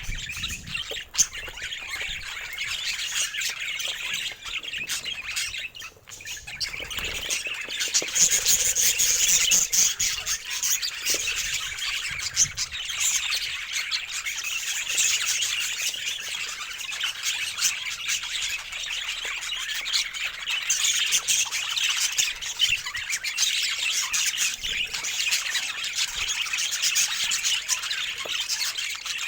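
Budgerigars chattering and squawking in a dense, continuous stream of high chirps, getting louder about seven seconds in.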